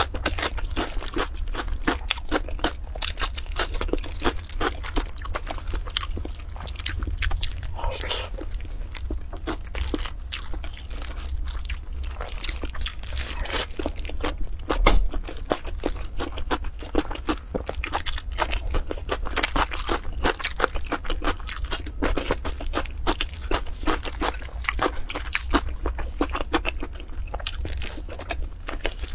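Close-miked eating sounds of a person chewing marinated boiled eggs with sliced onion: dense, irregular wet chewing, smacking and small crackles, with one louder knock about halfway through.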